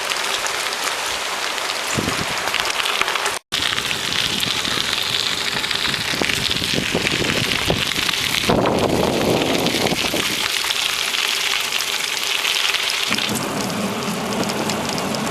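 Rushing water of a mountain creek, a steady hiss. It cuts out for an instant about three and a half seconds in, and its tone changes twice after that.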